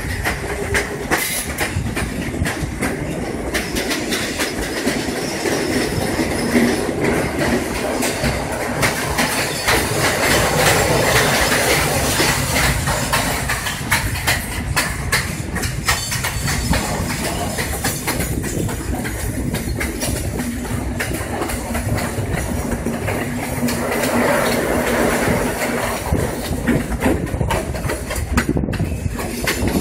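Sri Lanka Railways passenger train running along the track, its wheels clattering steadily over the rail joints as heard from an open carriage door. The noise turns louder for a few seconds midway, while the train runs through a tunnel.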